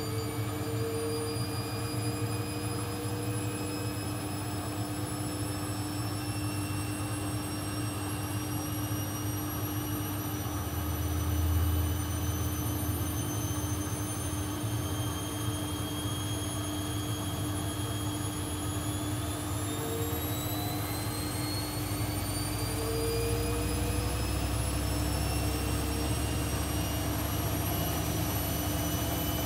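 AEG Lavamat 1400 washing machine spinning: the motor's whine rises slowly in pitch, then climbs faster about two-thirds of the way through as the drum speeds up, over a steady hum and rumble, with a brief louder rumble near the middle.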